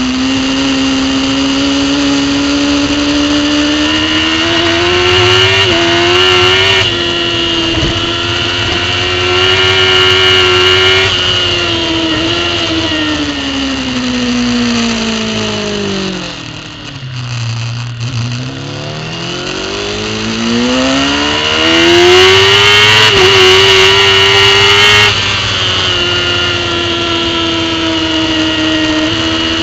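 Superbike racing motorcycle engine heard on board, revving hard. The engine note climbs, then falls steadily for several seconds to a low, quieter point about seventeen seconds in, rises again under acceleration, and drops suddenly about twenty-five seconds in.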